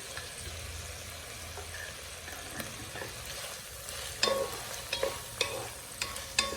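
Beef, sweet corn and frozen peas sizzling in oil and butter in a saucepan. From about four seconds in, a utensil knocks and scrapes against the pan several times as the mixture is stirred.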